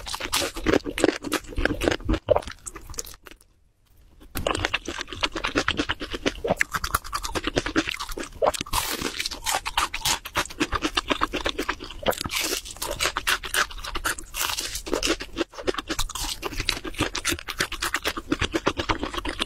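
Crunching and chewing of crispy glazed fried chicken, a dense run of crackles from the crust, with a brief pause about three seconds in.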